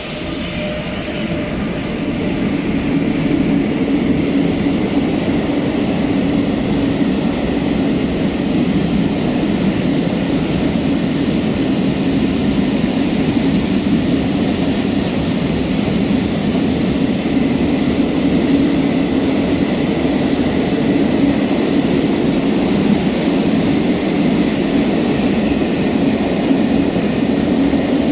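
Freight train passing close by, its wagons rumbling steadily on the track. The noise builds over the first few seconds as the train arrives, then holds steady.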